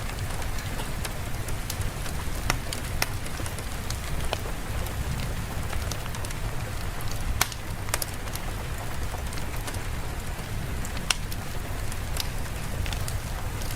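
Steady rain ambience with a low rumble under it, and scattered sharp clicks throughout.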